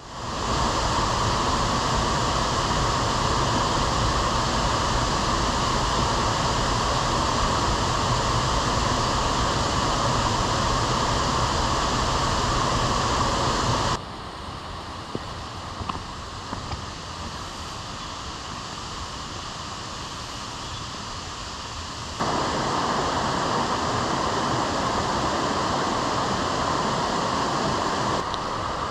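Steady rushing noise of strong wind and rain on a mountain summit. It drops abruptly to a quieter level about halfway through and comes back just as abruptly some eight seconds later.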